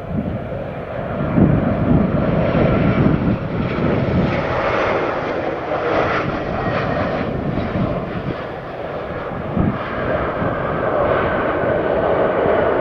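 Jet airliner engines running loud and steady, a rumble with a high fan whine over it.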